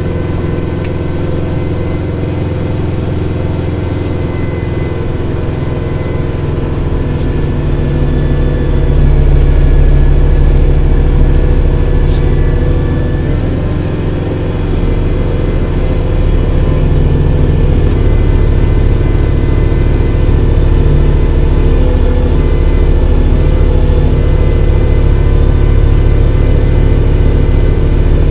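Kubota tractor's diesel engine running steadily. It gets louder about nine seconds in, eases briefly around fourteen seconds, then rises again and holds.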